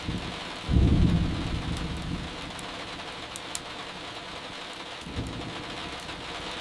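Steady rain hitting a window, with a low rumble of distant thunder that starts about a second in and fades, and a weaker rumble near the end. A few faint sharp crackles of burning firewood come through midway.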